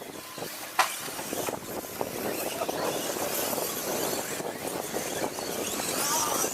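Radio-control 2WD stadium trucks racing, their motors whining up and down in pitch over a steady wash of tyre and chassis noise. A single sharp knock comes just under a second in.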